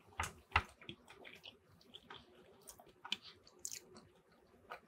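A person chewing a mouthful of poutine (fries, cheese and gravy): soft, irregular wet mouth clicks and smacks.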